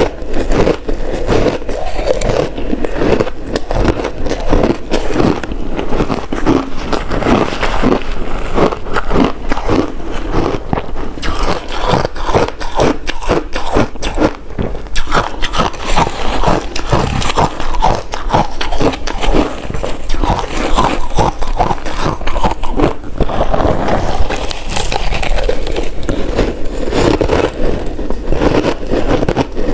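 Ice being bitten and chewed close to the microphone: a dense, continuous run of sharp cracks and crunches.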